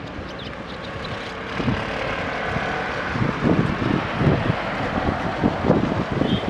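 SANY SAG160-5 motor grader's diesel engine running steadily while it works, with wind buffeting the microphone in irregular low thumps that grow stronger after the first second or so.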